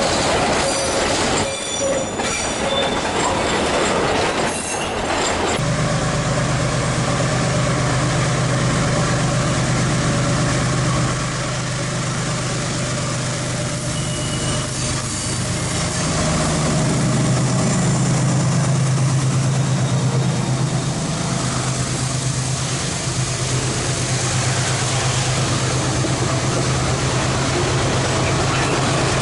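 Freight train on the line: clattering wheel and rail noise at first. About five seconds in it cuts to the steady low hum of diesel locomotive engines running under continuous rolling wheel noise.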